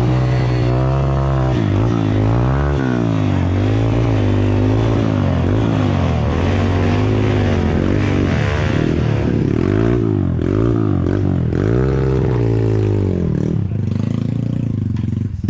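Trail motorcycle engine revved up and down over and over, easing back near the end.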